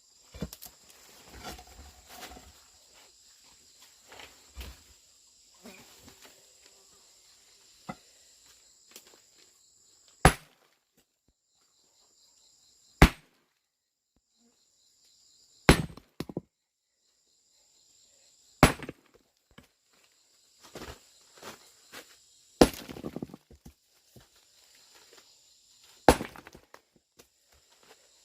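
Six sharp, heavy blows of a hand tool, struck about every three seconds, with lighter handling and rustling before them. Insects chirp steadily behind, falling silent for a few seconds in the middle.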